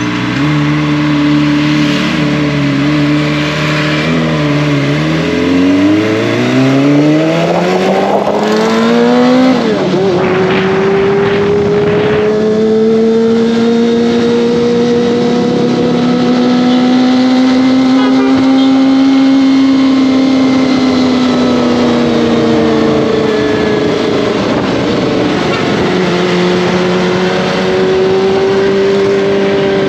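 Kawasaki ZX-25R's inline-four engine and exhaust riding on the road. The revs climb steadily for a few seconds, then drop sharply at a gear shift about a third of the way in. They hold nearly level, ease off later and settle again.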